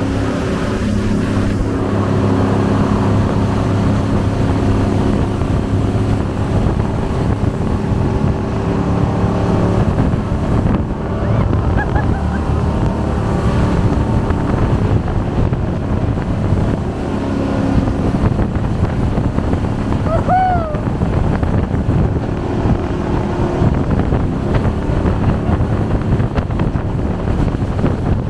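Jet boat's engine running with wind buffeting the microphone and water rushing past. A brief high rising-and-falling squeal comes about two-thirds of the way through.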